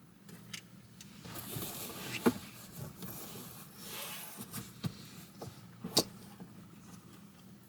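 Rustling and handling noises of car decor accessories being slid on and fitted, with a few sharp clicks and taps, the loudest about two seconds in and about six seconds in.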